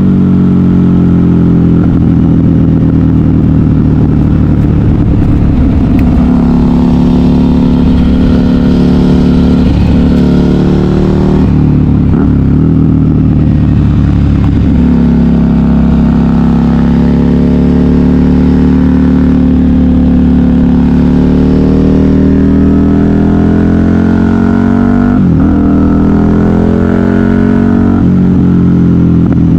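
KTM 990 Super Duke R's V-twin engine through a custom exhaust, ridden hard on the open road: its pitch climbs steadily under throttle, then drops sharply a few times before climbing again.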